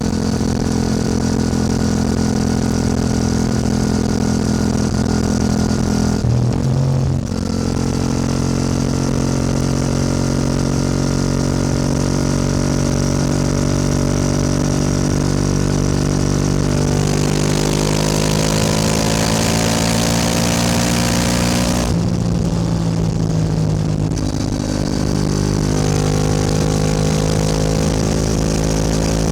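Yamaha R7 motorcycle engine running under way, holding steady revs with a brief break about six seconds in, as at a gear change. Near the middle the revs climb steadily under acceleration with a rushing hiss over them, then drop sharply about twenty-two seconds in before settling again.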